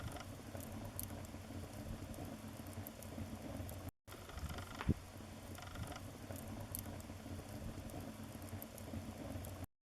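Wood fire crackling in a fireplace: a steady hiss of burning with scattered small pops and one louder pop about five seconds in. The sound drops out briefly around four seconds and cuts off just before the end.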